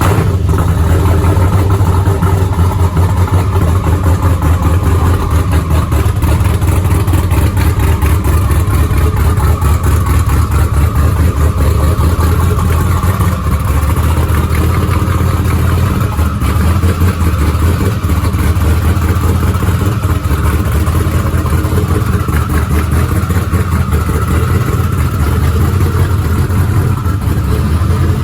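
Twin-turbo LSX 427 V8 in a 1979 Pontiac Trans Am idling steadily just after catching, its first start after a rebuild with new lifters and pushrods.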